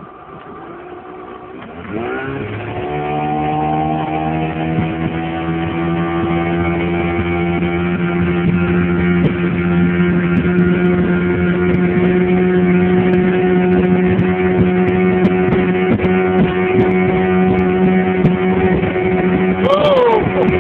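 Speedboat engine opening up about two seconds in, rising in pitch, then running steady and loud at speed. A short shout near the end.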